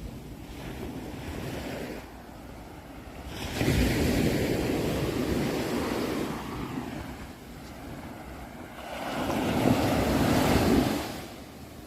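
Sea waves breaking on a shore: two waves surge in, one about three and a half seconds in and another about nine seconds in, each swelling and then falling away.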